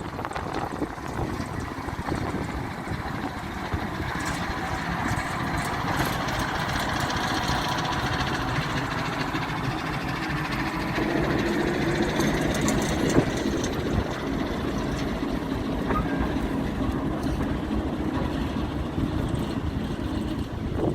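Diesel engine of a heritage railway locomotive or railcar running steadily, growing a little louder and fuller in tone about halfway through.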